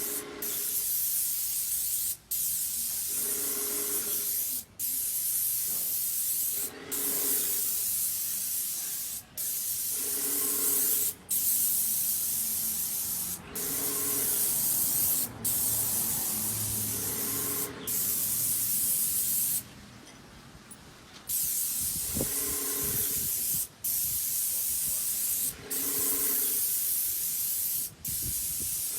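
Paint spray gun hissing in repeated passes. The spray cuts off briefly about every two seconds as the trigger is released between strokes, with one longer pause about two-thirds of the way through. A lower hum comes and goes underneath.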